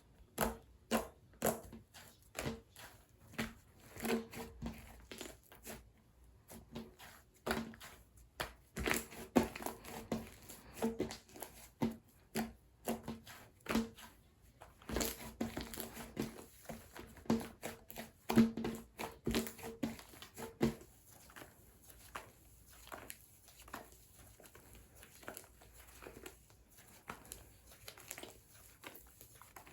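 Slime being squeezed and pressed by hand: a dense run of short sticky clicks and pops, busier and louder for the first two-thirds, then softer and sparser near the end.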